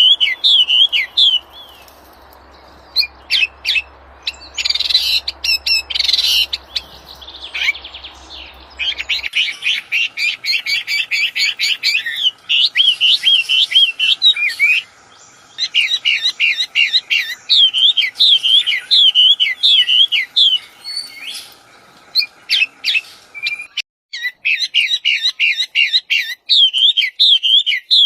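A wambi songbird singing fast, repeated whistled notes that swoop up and down, in long runs broken by short pauses, with some harsher chattering notes between the runs.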